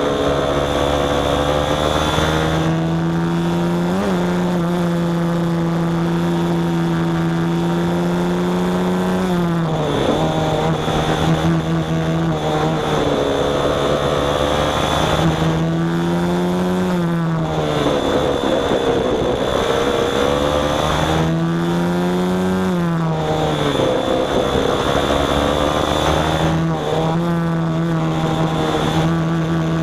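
Small engine of a motorized kayak running at a steady pitch, dropping off and picking up again several times as the throttle is eased and reopened, with a faint steady high whine over it.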